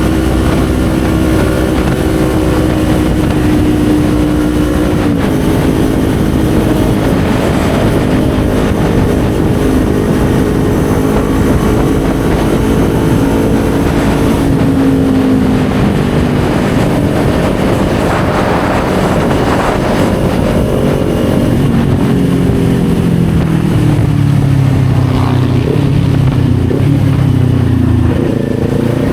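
Kawasaki Z400's parallel-twin engine running on the move, with steady wind rush. The engine note dips about five seconds in and again around fourteen seconds, eases down over a few seconds later on, then rises again near the end.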